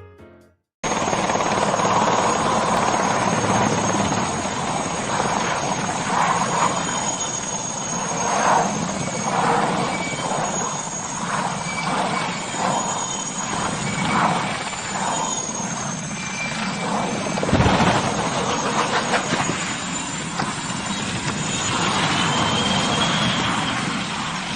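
Helicopter running close by: dense, steady rotor and engine noise with a high, wavering whine over it, and one sharp knock about eighteen seconds in.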